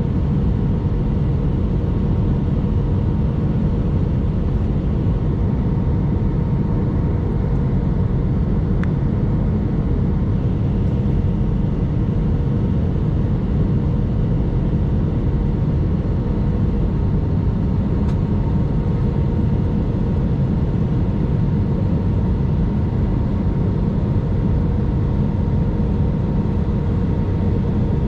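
Steady cabin noise of an Airbus A319 airliner in flight: a low, even rumble of engines and airflow with a faint constant hum on top.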